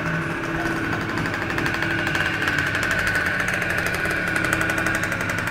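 Peugeot Speedfight 2 scooter's two-stroke engine running steadily through its aftermarket Stage6 Pro Replica exhaust, with a rapid buzzing pulse. The pitch rises slightly about two seconds in, then holds.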